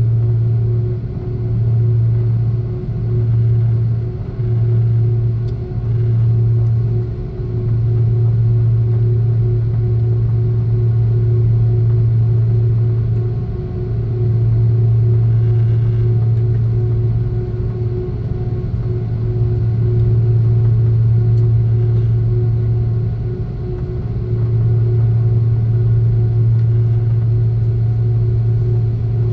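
Cabin drone of an Airbus A330-300 with its Pratt & Whitney engines running, heard from inside the cabin: a steady low hum that swells and dips slightly, with a faint steady whine above it.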